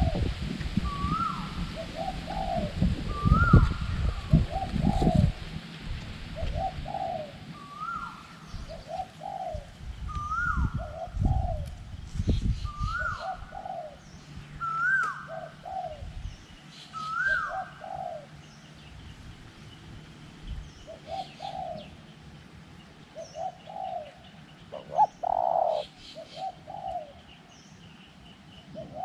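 Spotted doves cooing, repeating their phrase every second or two, with a higher sliding note and lower coos. Wind rumbles on the microphone for the first dozen seconds or so. Other small birds chirp faintly in the background.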